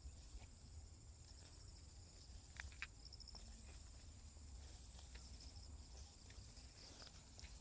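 A steady, high-pitched chorus of insects chirring in the countryside, with a faint low rumble beneath and a few soft clicks a little under three seconds in.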